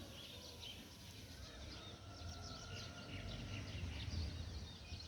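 Faint birds chirping: many short, high calls over low background noise.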